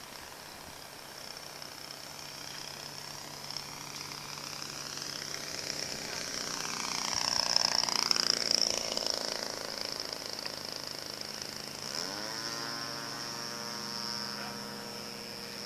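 The 20cc VVRC engine of a Modeltech Yak 54 RC aerobatic plane in flight. It grows louder to a close pass about halfway through, then fades, and settles into a steadier drone in the last few seconds.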